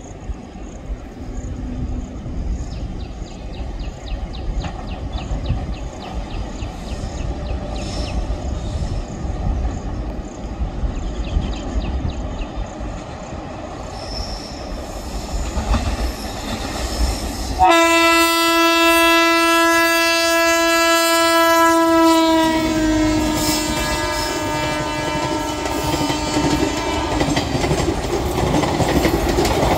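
Indian Railways WAP7 electric locomotive and its express train: wheels click lightly over the rail joints as it approaches, then the locomotive sounds one long horn note for about five seconds, its pitch dropping slightly as it passes. The coaches then roll by with a steady rumble and clickety-clack.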